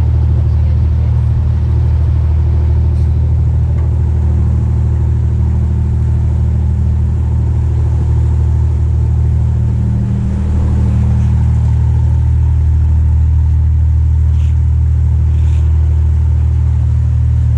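Narrowboat's diesel engine running steadily under way, a little louder from about ten seconds in.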